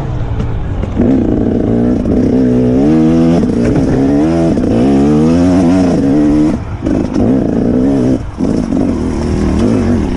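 Dirt bike engine revving hard, its pitch climbing and dropping again and again as it accelerates and backs off, with short breaks in the sound about six and a half and eight seconds in.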